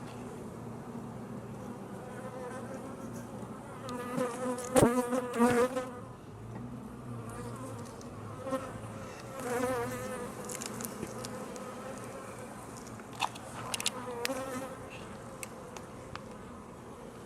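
Honey bees buzzing steadily around an open hive. The buzz swells louder with a wavering pitch around four to six seconds in and again near ten seconds, as bees fly close. A few sharp clicks or knocks sound, the strongest about five seconds in.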